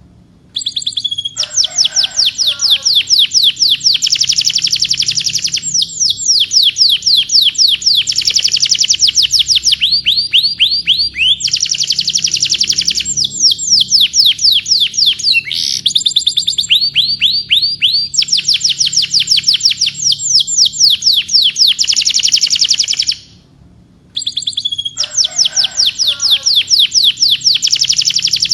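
Domestic canary singing a long song of rapid trills, one rolling phrase after another, breaking off briefly right at the start and again near the end. After each break a lower, rattling phrase comes in before the high trills resume.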